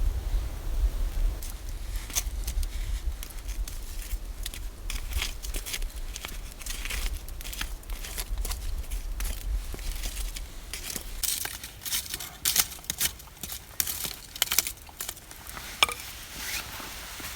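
Irregular crinkly rustling and crackling, many small sharp ticks and scrapes that get denser in the second half, with wind rumbling on the microphone during roughly the first half.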